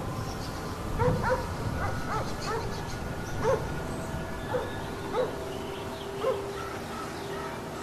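An animal's short yelping calls, repeated irregularly every second or so, over a steady noisy background, with a faint steady hum joining about five seconds in.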